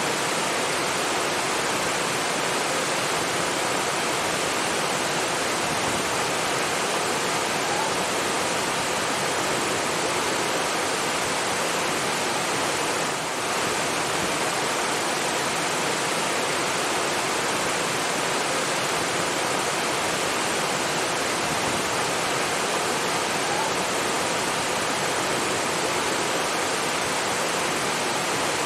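Steady rush of water, an even hiss over low and high pitches alike, with a short dip in level about halfway through.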